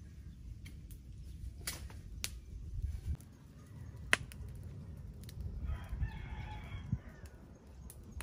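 A rooster crows once, for about a second and a half, about six seconds in. A few sharp clicks come earlier, over a steady low rumble.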